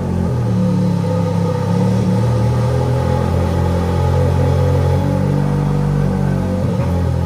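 Ferrari F430's V8 engine running at a steady idle shortly after a cold start.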